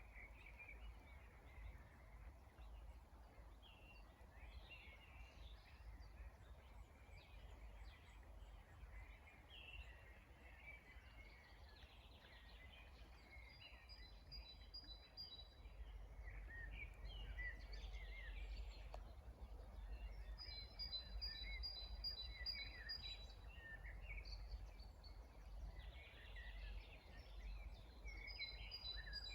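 Several songbirds singing and chirping together, with quick twittering notes throughout. Three times, one bird gives a run of rapid, evenly repeated high notes. A faint low rumble runs underneath.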